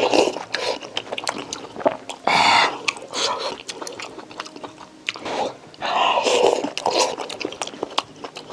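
Close-miked eating sounds: chewing and biting with many small wet clicks, and two longer noisy bursts, one about two seconds in and one about six seconds in.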